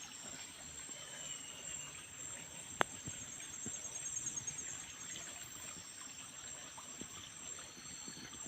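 Steady trickle of a stream with insects chirring high and steady over it; a single sharp click about three seconds in.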